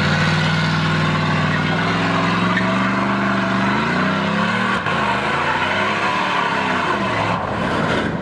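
A vehicle engine revving under load. Its pitch climbs over the first few seconds, dips about five seconds in, rises again, then eases off near the end.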